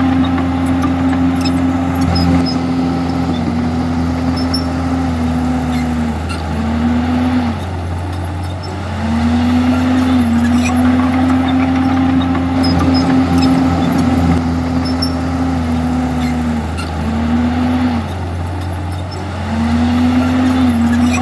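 Komatsu D51EX bulldozer's diesel engine running hard under load, its note sagging and recovering several times as it pushes, over a steady low drone.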